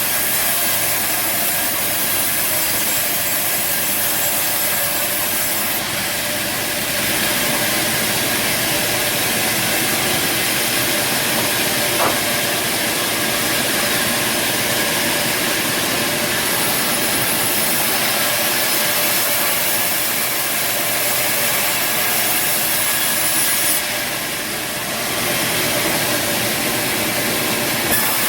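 Band sawmill running and cutting timber: a steady, loud machine hiss with a faint whine in it. There is a short click about halfway through and a brief dip near the end.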